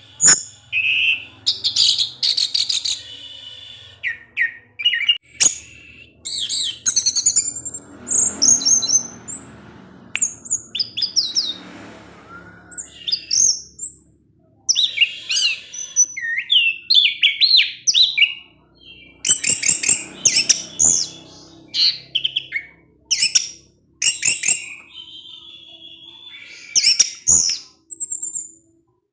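Orange-headed thrush singing a long, varied song of quick whistled notes, chirps and trills in phrases separated by short pauses.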